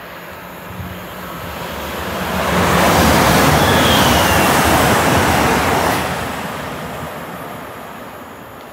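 GWR Intercity Express Train passing through the station at speed: a rush of wheels on rail and air that swells over about two seconds, stays loud for about three, then fades. A brief high falling whine comes near the middle of the pass.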